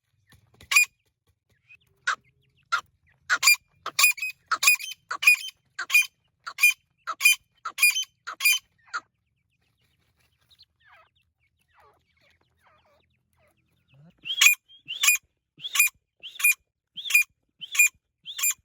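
Irani teetar partridge calling: a run of short, sharp notes repeated about one and a half times a second, a pause of several seconds about halfway, then a second run of the same notes near the end.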